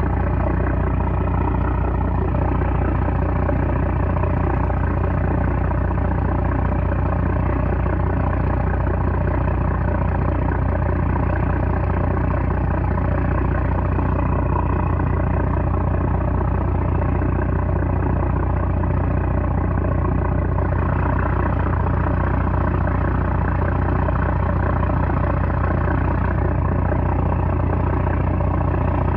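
A 330-horsepower small trawler's engine running steadily, a low, even drone that holds the same pitch throughout.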